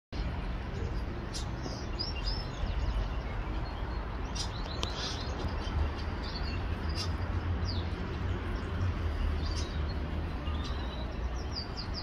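Birds chirping in short, scattered high calls over a steady low rumble of background noise.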